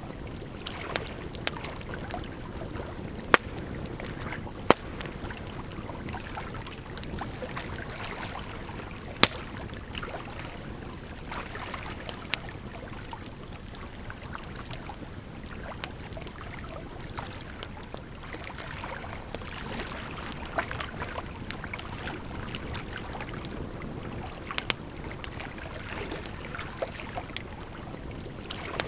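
Burning firewood crackling, with frequent small snaps and a few louder sharp pops spread through, over a steady sound of running water.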